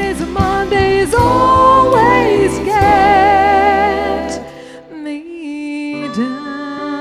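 Live band music with a female singer holding long notes with vibrato over drums and bass; about four and a half seconds in the band drops away, leaving soft sustained keyboard chords.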